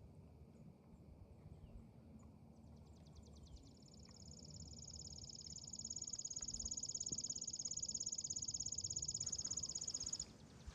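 An insect calling: a high, rapid pulsing trill that starts about three seconds in, grows louder, holds steady for several seconds and cuts off suddenly near the end.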